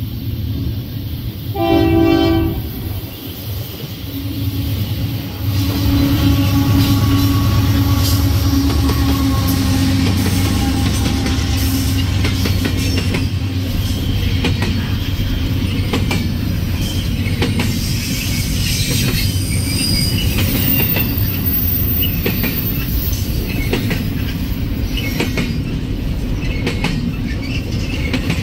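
A locomotive horn sounds one short blast about two seconds in. Then the diesel engines of Union Pacific locomotives, led by a GE AC4400CW, run loud as they pass, followed by a double-stack container train rolling by with its wheels clicking over the rail joints.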